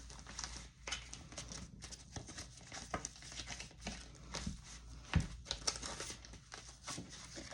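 Paper cash and envelopes being handled: irregular rustling, crinkling and light taps, with one louder knock about five seconds in.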